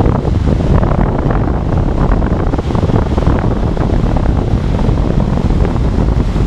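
Strong wind buffeting the microphone over the steady rush of breaking ocean surf.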